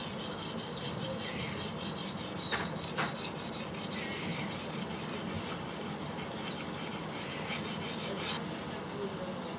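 Yanagiba knife edge rubbed in quick, repeated light strokes on a natural whetstone, putting on a micro bevel: a steady rasping scrape.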